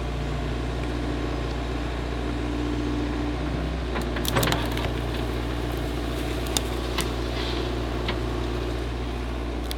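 An engine running steadily, with a few sharp clanks and knocks over it: a cluster a little before halfway, then three single knocks later on.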